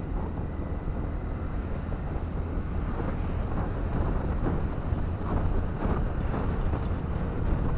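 Wind buffeting the microphone of a riding motorcycle, over the steady noise of its engine and the surrounding road traffic.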